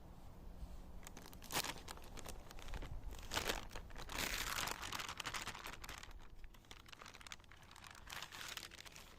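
Crinkly packaging being handled and rustled, a run of sharp crackles that is loudest from about a second and a half in to about five seconds, then eases off.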